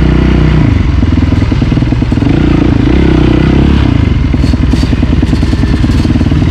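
Motorcycle engine running, its revs rising and falling, with a rapid pulsing from the exhaust.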